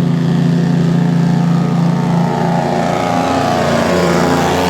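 Motor vehicle engine running steadily. In the second half, a second engine sound swells and sweeps in pitch, then fades near the end, as a vehicle passes close by.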